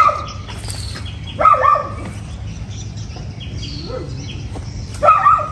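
Small birds chirping, with a few short, louder calls at the start, about a second and a half in, and near the end.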